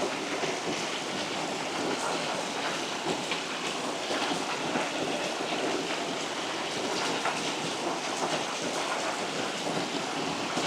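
Water pouring over a small waterfall: a steady, even rush of splashing water.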